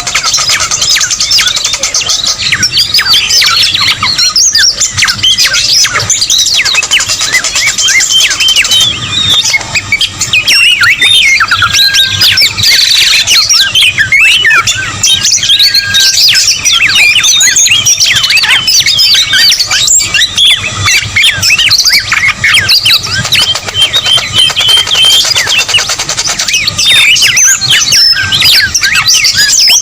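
Dense, unbroken chorus of many birds calling at once: short, rapid, overlapping chirps and whistled sweeps, a noisy bird-lure recording.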